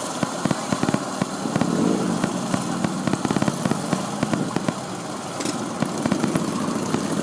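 Coleman minibike's small single-cylinder engine running steadily with a fast, even chugging beat.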